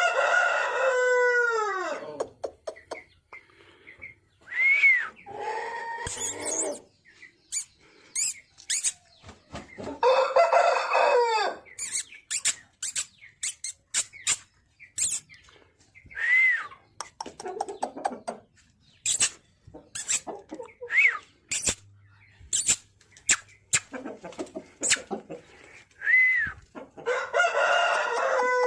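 Parrot-beak aseel rooster crowing three times, each a long crow that drops in pitch at the end, with short high calls and sharp clicks in between.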